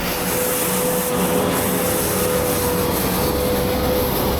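Steady city traffic noise: a constant rushing hiss with a steady hum under it.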